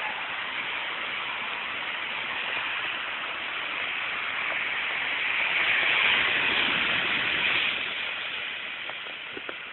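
Heavy rain and running floodwater making a steady hiss, which swells louder for a couple of seconds around the middle.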